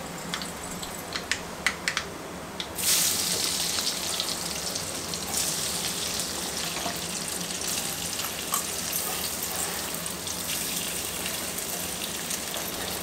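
Chopped raw potatoes tipped into hot oil and spices in an iron kadhai, starting a sudden sizzle about three seconds in that goes on as a steady hiss; a few light clicks come before it.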